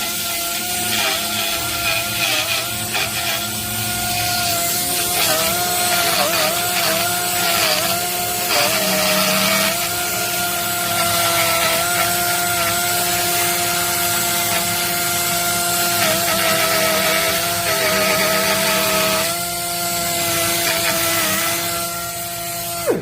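Daewoo Yangsan Gigong 5-inch pneumatic chamfering machine running on 3 bar air in a test after repair, a steady high whine. Its pitch sags and wavers with a rougher scraping noise at times as it takes load cutting a chamfer, and it shuts off suddenly at the end.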